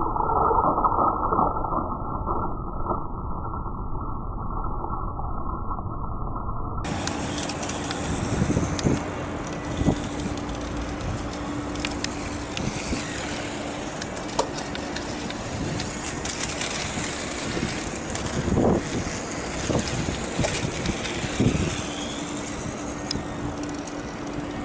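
Toy radio-control motorcycle running, its small electric motor giving a steady hum over rolling and handling noise, with occasional short knocks. The sound is muffled for the first several seconds, then clearer.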